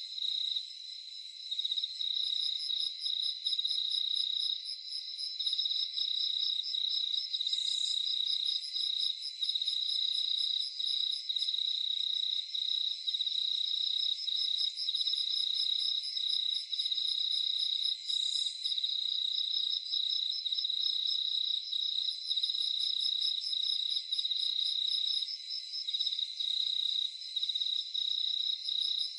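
Crickets chirping in a night chorus: one steady high trill under faster pulsed trills that start and stop, with a short, higher sound about every ten seconds.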